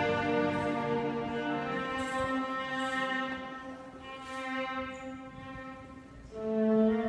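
Solo viola playing a slow melody of long held notes, accompanied by orchestra. It grows softer in the middle, then a louder new phrase begins near the end.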